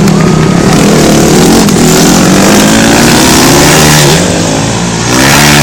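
Motorcycle engine revving hard, its pitch climbing and falling. It eases off about four seconds in, then revs up again near the end.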